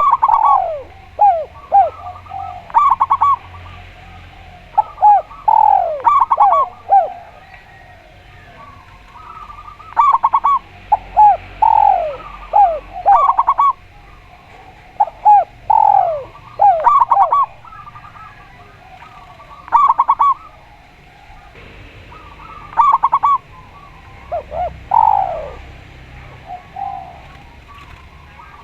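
A spotted dove and a zebra dove cooing repeatedly, their calls overlapping. Phrases of falling, swooping coos mix with quick stuttering runs of notes, coming in bursts every couple of seconds with short pauses between.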